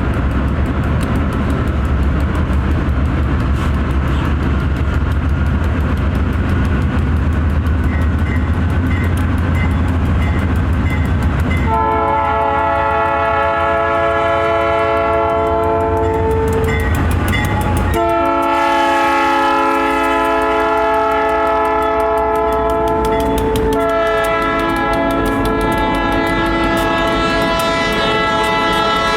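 A low diesel engine rumble, then a locomotive's multi-chime air horn sounding three long blasts, starting about twelve seconds in, with short breaks between them.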